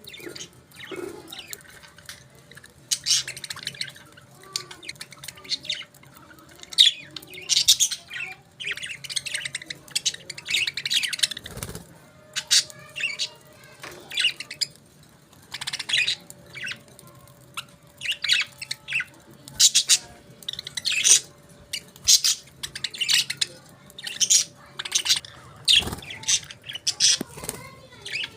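Budgerigars chirping and chattering, many short, high calls in quick runs with brief pauses between.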